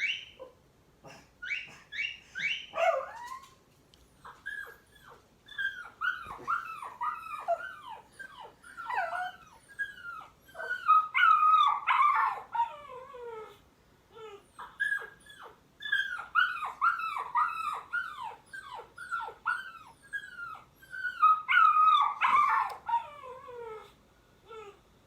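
A dog whining and whimpering: runs of short high calls, each sliding down in pitch, several a second, with a couple of brief pauses.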